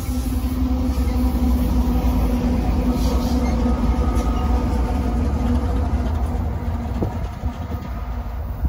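A BNSF freight train's rear diesel locomotives rolling past close by, their engines running with a steady low drone over the rumble of wheels on rail. The drone eases off as they pull away near the end, and there is a single sharp knock about seven seconds in.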